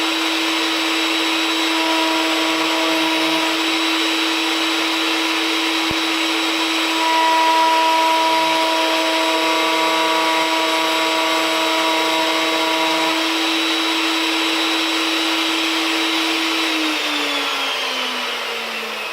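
Table router with a 1/2-inch spiral upcut bit running at full speed through a pin-router pass on wood, a steady high whine with a rougher cutting sound under it. About 17 seconds in it is switched off and the whine slides down in pitch as the motor spins down.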